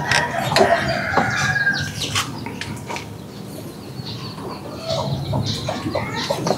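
Chickens clucking, with a rooster's call among them, over a steady low rumble.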